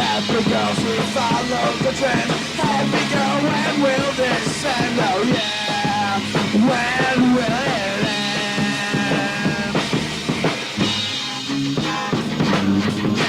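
Lo-fi punk rock song from a 4-track demo tape recording: band music with drums, playing continuously.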